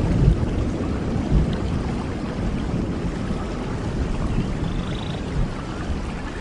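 Steady rain with a deep low rumble underneath, like distant thunder, and a few faint high chirps in the later part.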